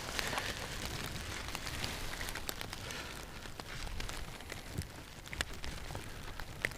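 Light rain falling, a steady hiss with scattered drops ticking on near surfaces.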